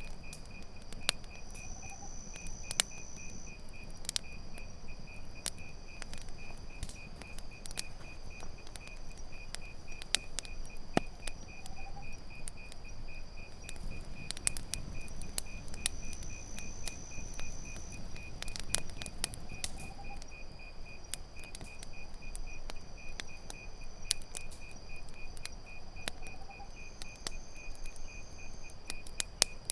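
Campfire crackling with scattered sharp pops, over a fast, even chirping of crickets and a continuous high insect drone. A faint short rising call comes four times, about eight seconds apart.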